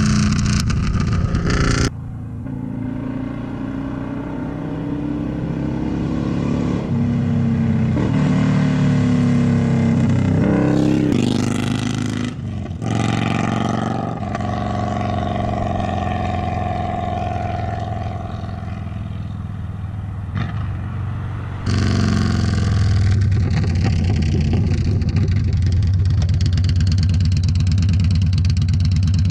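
Metric motorcycle engine running loud through a Baron 4-inch exhaust with its baffle removed, revving and accelerating with the note rising and falling, as when riding through the gears. The sound changes abruptly a few times. Without the baffle the exhaust note can sound like the engine knocking at certain RPMs, which the owner puts down to the exhaust, not the motor.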